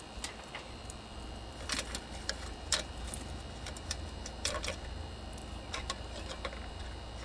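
Irregular metallic clicks and clinks of hand tools working on a condenser fan motor and blade assembly, over a steady low hum.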